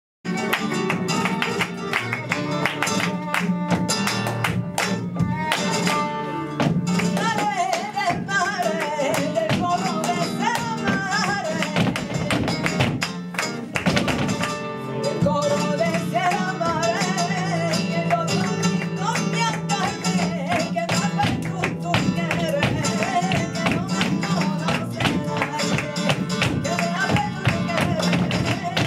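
Live flamenco tangos: flamenco guitar with a wavering sung vocal line coming in about seven seconds in, over a steady stream of sharp percussive clicks.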